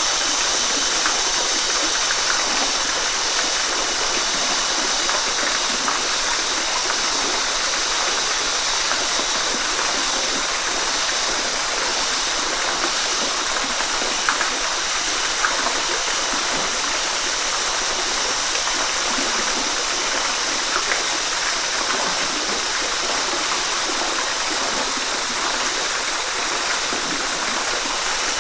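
Waterfall: a steady, even rush of falling water, with faint scattered splashes.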